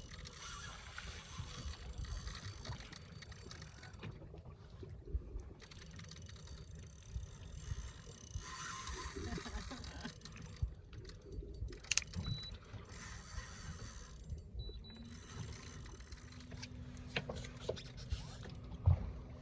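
A fishing reel being cranked hard against a hooked tarpon, its gears grinding in spurts that start and stop every few seconds, with a few sharp clicks and a steady low rumble underneath.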